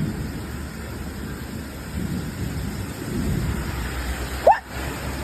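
Rain falling steadily, with a low rumble under it. About four and a half seconds in, a short rising voice cry stands out above it.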